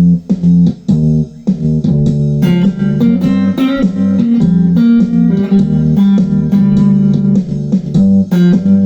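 Three-string cigar box guitar being played: a riff of evenly repeated low plucked notes, joined by higher, brighter notes from about two and a half seconds in.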